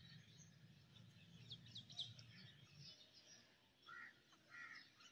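Faint birds chirping outdoors over near silence: a few quick chirps about a second and a half in and a few short calls near the end, with a faint low hum that fades out about three seconds in.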